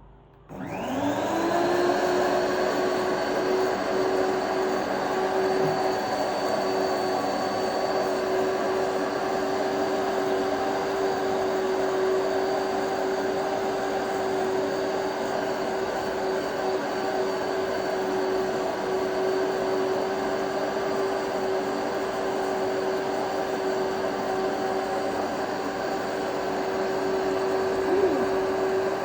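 Electric grinder motor spinning up with a rising whine, then running steadily at its highest speed while grinding dried pepper to powder.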